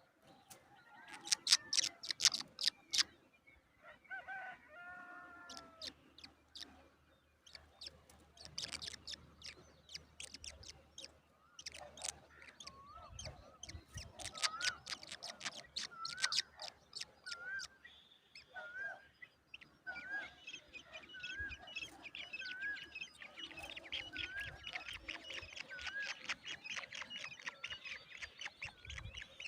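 An adult bird and her chicks calling: many quick sharp chirps, a few lower calls, then a short curling call repeated about once a second through the second half.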